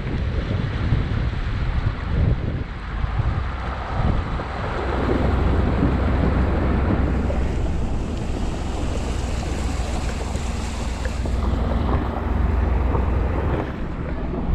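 A truck driving through several inches of standing floodwater: water sloshing and rushing against the tyres and underbody over a steady low engine hum.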